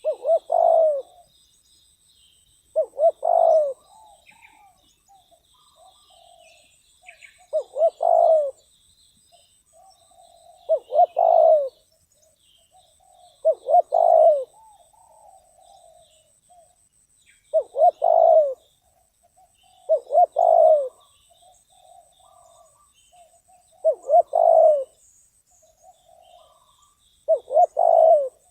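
Spotted dove cooing over and over, a loud phrase of a few coos every few seconds with softer coos between. Faint chirps of small birds sound higher up.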